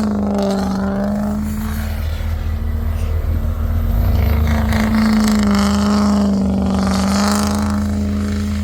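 Truck engine running hard at a steady, fairly high pitch with a deep rumble underneath, the pitch wavering slightly up and down.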